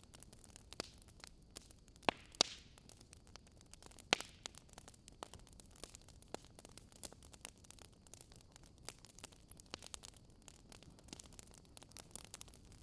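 Wood fire crackling: a steady scatter of small snaps and ticks over a faint hiss, with a few louder pops about two and four seconds in.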